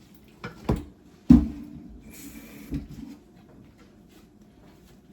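Kitchen clatter of pots and pans on a stovetop: a few knocks, the loudest about a second in with a short ring after it, then a brief hiss and one more knock.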